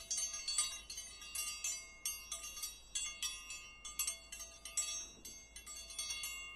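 Bells or chimes struck in quick, irregular succession, several strikes a second, each ringing on at the same set of steady pitches.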